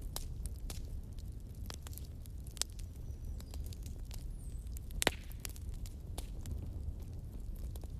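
Wood fire in a fireplace crackling, with irregular sharp pops and snaps over a low steady rumble; one louder pop about five seconds in.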